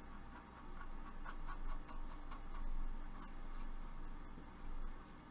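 Paintbrush scratching and dabbing against the plastic hull of a model kit, irregular soft strokes and small clicks while oil-paint rust streaks are blotted and feathered.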